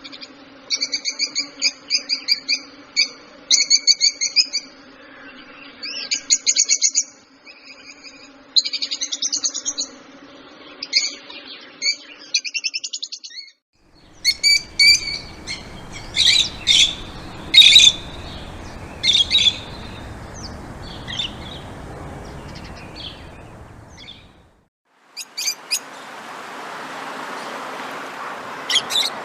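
Small birds chirping in rapid, repeated high phrases, in three spliced recordings: the first over a steady low hum, the second over a background hiss, and the last mostly a rising rushing noise with a few chirps near the end.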